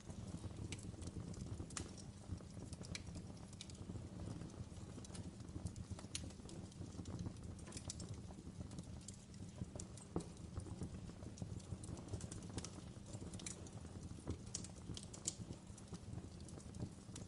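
Wood fire crackling in a fireplace: irregular sharp pops and snaps, a few louder than the rest, over a low steady rumble of the burning logs.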